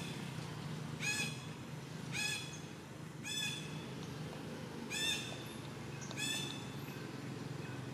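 A bird calling over and over: five short, high, ringing calls, each about a second or so after the last, over a low steady hum.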